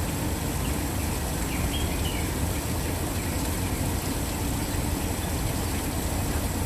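Waterfall rushing in a steady, unbroken roar of water noise, with a few faint short chirps about two seconds in.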